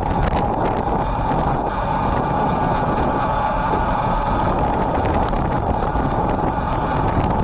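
Steady rush of wind and riding noise on an action camera's built-in microphone, on a road bike in strong wind and rain.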